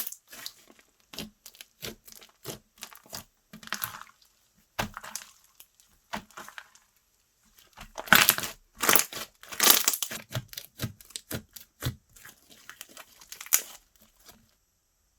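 Slime being handled close to the microphone: an irregular run of sharp pops and crackles, busiest about two-thirds of the way in, then stopping shortly before the end.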